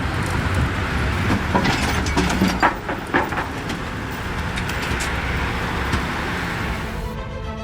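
Road vehicle noise, a steady low rumble, with a few short knocks or clatters about two to three seconds in. Music starts near the end.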